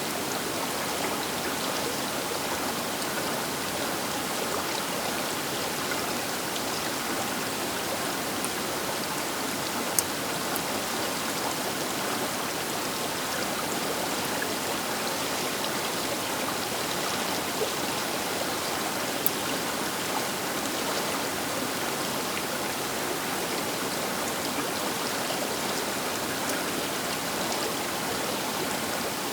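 The Baker River rushing steadily past the bank, an even wash of flowing water with a couple of brief clicks.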